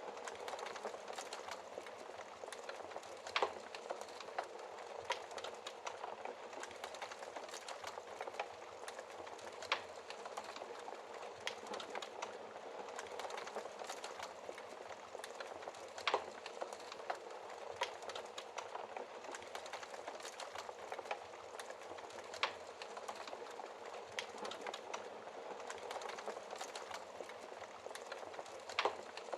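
Wood fire in a fireplace crackling steadily, a dense run of small ticks with a few sharper, louder pops every several seconds.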